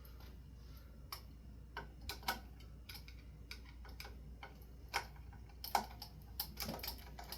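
Irregular light clicks and clinks of a screwdriver, screws and metal ceiling-fan blade irons being handled while the blades and irons are unscrewed from the fan motor.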